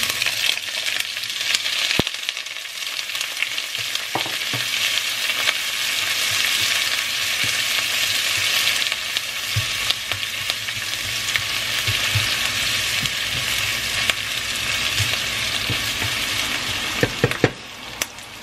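Shredded ginger and spring onions sizzling hard in smoking-hot oil in a non-stick frying pan, stirred with a spatula that knocks now and then against the pan. The sizzle falls away near the end, with a few last clicks.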